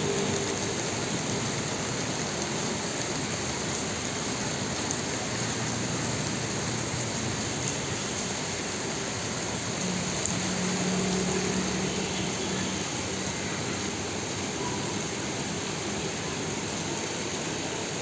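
Heavy rain falling in a steady, even hiss. A faint low hum comes up briefly about ten seconds in.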